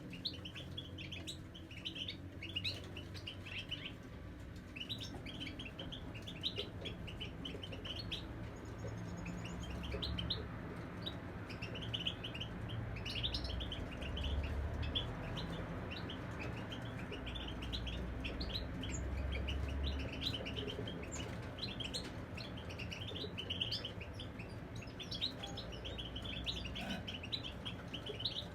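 European goldfinches singing: a dense run of rapid twittering chirps that goes on without a break, over a low background rumble.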